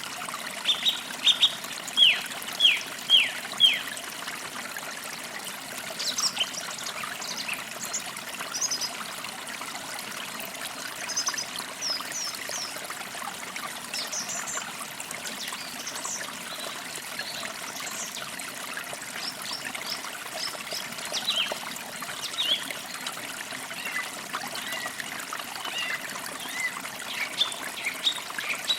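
Forest creek trickling steadily, with birds chirping over it: a quick run of short downward-sliding calls in the first few seconds, then scattered short high chirps.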